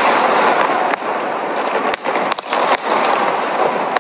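Many fireworks going off at once: frequent sharp bangs and crackles over a continuous dense din.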